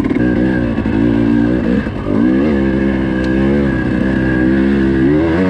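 Dirt bike engine revving up and down as the throttle is worked, dropping briefly about two seconds in and then climbing again.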